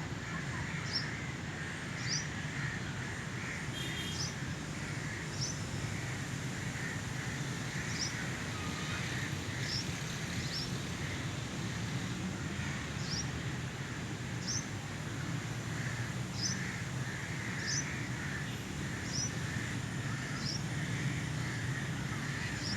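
Outdoor ambience: a short high chirp repeats about every second and a half over a softer, busier chattering and a steady low hum.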